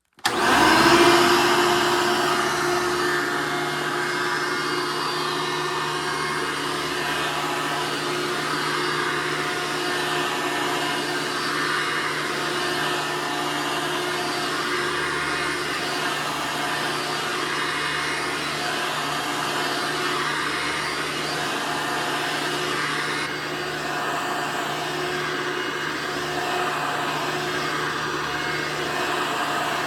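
2001 Hoover Soft & Light upright vacuum cleaner switched on, its motor spinning up within about a second and then running with a steady whirr. The owner describes the motor as failing.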